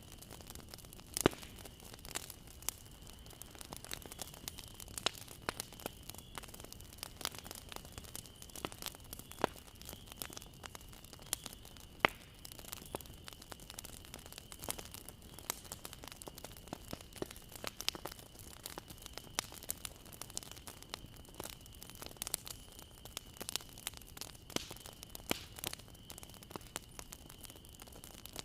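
Wood bonfire crackling: a dense, irregular run of snaps and pops over a low hiss, with a sharper pop about a second in and another about twelve seconds in.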